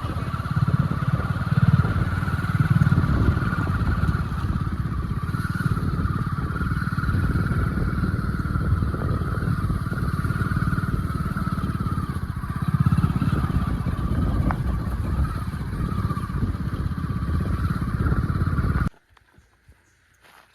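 Motorcycle engine running steadily with a low rumble and a wavering mid-pitched drone; the sound cuts off abruptly near the end.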